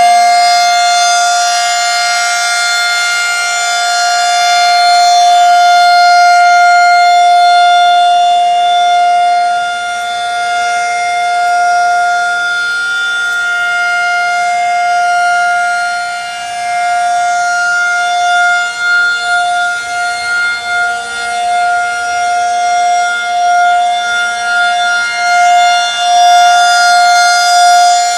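Outdoor civil-defense warning siren sounding one steady, loud tone with strong overtones. From about halfway through, its loudness wavers up and down in quick swells.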